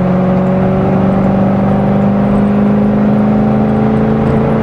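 C6 Corvette Z06's 7.0-litre LS7 V8 running under light throttle while driving, a steady engine note whose pitch climbs slowly as the car gains speed.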